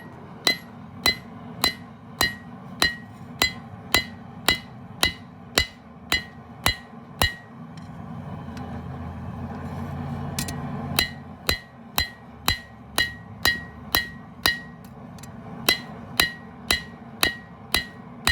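Hand hammer striking a hot steel knife blade on an anvil, about two evenly paced blows a second with a bright ring on each, drawing out a distal taper toward the tip. The hammering stops for a few seconds about seven seconds in, when a rushing noise swells, then resumes at the same pace.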